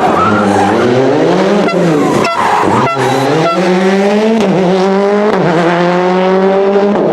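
Rally car engine accelerating hard through the gears, the pitch climbing and then dropping sharply at each of several quick shifts, with short cracks at the shift points.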